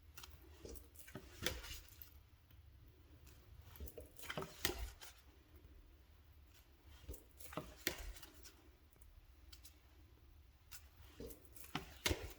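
Oracle cards handled and flipped one at a time: short slides, taps and snaps of card stock in a small group about every three seconds.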